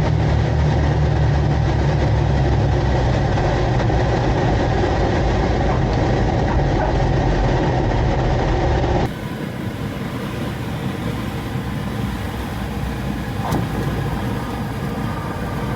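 Britten-Norman Trislander's three 260-horsepower piston engines running, heard from inside the small cabin. About nine seconds in the sound changes abruptly and drops to a quieter, steadier run.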